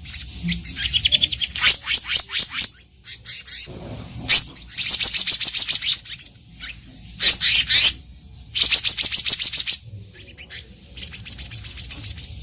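Black-naped monarch calling: about five bouts of rapid, evenly spaced high notes, each bout lasting about a second, with short pauses between them.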